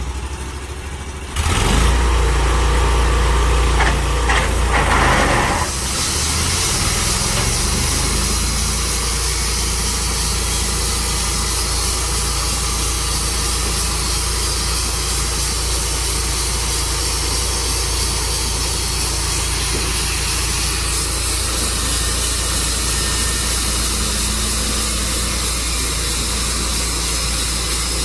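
Tru Cut sawmill's engine revs up about a second and a half in, then runs steadily with a constant high hiss over a low hum.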